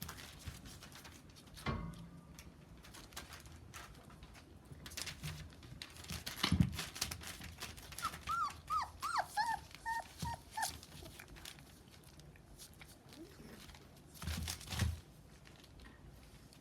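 Rough Collie puppies, about four weeks old, whimpering: a quick run of short high squeaks about eight seconds in, with rustling and a few soft knocks around it.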